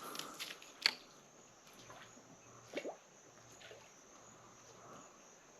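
Faint creek ambience with a few sharp clicks in the first second, the loudest just under a second in, and a short single pop near three seconds.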